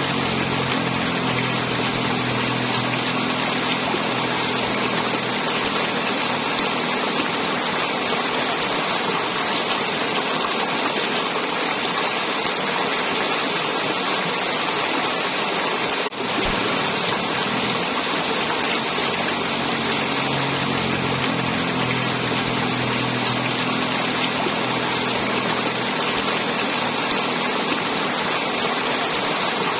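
River water flowing and gurgling over rocks, a steady rushing sound, with a brief click about halfway through.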